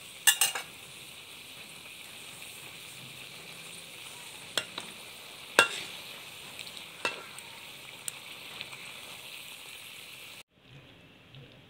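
Panang curry with chicken sizzling in a metal wok, with several sharp clinks and scrapes of a metal spatula against the pan as it is stirred. The sizzle cuts off suddenly near the end.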